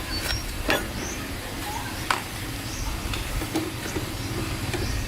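A few sharp clinks and knocks, about one every second or so, over a steady low rumble.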